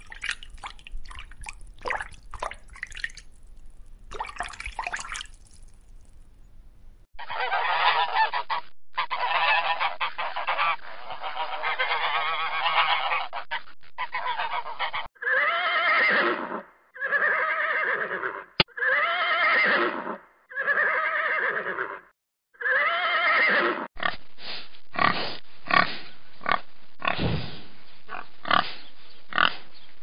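Loud farm-animal calls: several seconds of dense, overlapping calls, then about five separate drawn-out calls of roughly a second each, then a quick run of short sharp calls.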